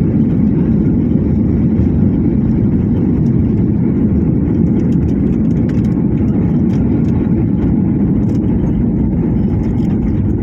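Steady low rumble of an airliner heard from inside the passenger cabin, with the noise of the engines and of the aircraft moving, and faint rattles above it.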